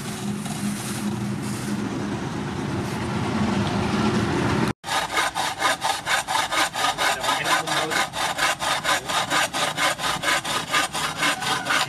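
A steady droning hum, then, after an abrupt cut about five seconds in, a hacksaw cutting through a wooden knife-handle block in quick, even back-and-forth strokes, several a second.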